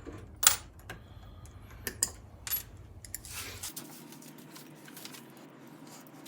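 Light metallic clicks and clinks of a roller-door drive chain and its master joining link being handled. There are a few sharp taps in the first half, the loudest about half a second in.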